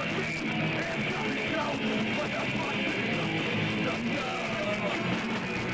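Punk rock band playing live, with electric guitars to the fore, at a steady level throughout.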